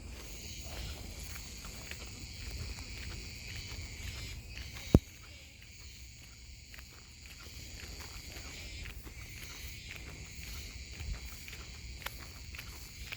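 Cicadas singing in a steady high-pitched chorus, with footsteps on a path and one sharp click about five seconds in.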